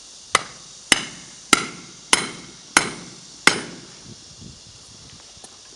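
A hammer striking metal six times at an even pace, about one blow every 0.6 seconds, each blow ringing briefly.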